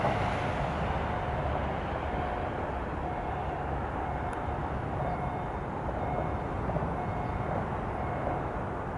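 Trains on an electrified main line heard at a distance: a steady rumble of rolling stock, a little louder at the very start, with a faint whine that comes and goes.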